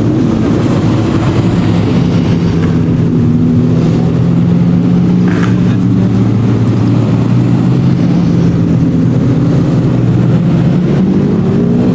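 Supercar engine running steadily at low revs, with its pitch starting to rise near the end.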